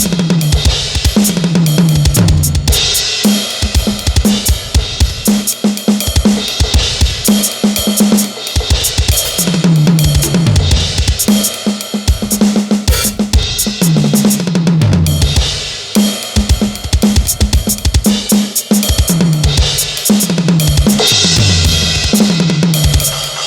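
Electronic drum kit being played nonstop: steady kick, snare and cymbal hits, with fast fills that run down the toms from high to low every few seconds.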